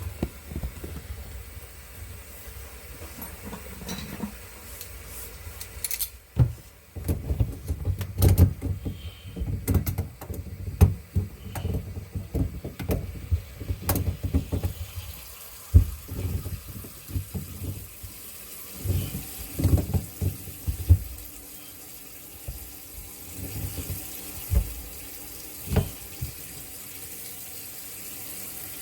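Water running from a faucet into a bathroom sink and down its drain, with scattered knocks and clunks through the middle; the running water grows steadier toward the end.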